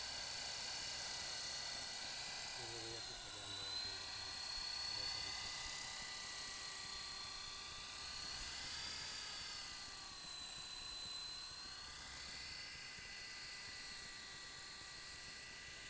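Walkera LM3 coaxial radio-controlled helicopter in flight, its electric motors and rotors giving a steady high whine. The pitch dips and rises a few times as the throttle changes.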